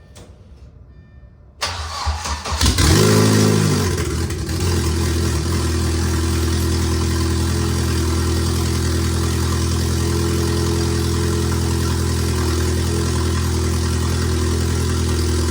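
Turbocharged Audi engine being started: a second or so of cranking, then it catches with a brief flare of revs that falls away, and settles into a steady idle.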